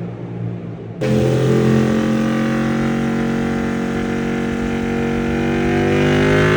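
Ducati Panigale V4R's V4 engine through a Termignoni four-outlet exhaust. It gets suddenly louder about a second in, then runs hard with its pitch climbing steadily as it accelerates.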